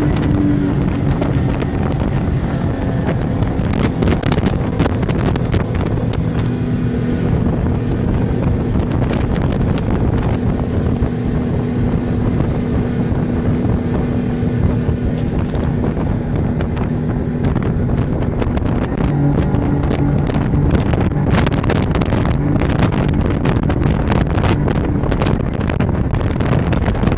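Motorboat engine running steadily, its pitch shifting a little now and then, with wind buffeting the microphone.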